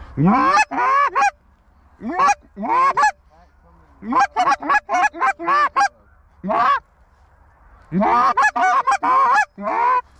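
Canada goose honks and clucks, loud and close, in irregular clusters: a few drawn-out honks at first, then a quick run of short clucks, and a dense burst of honking near the end.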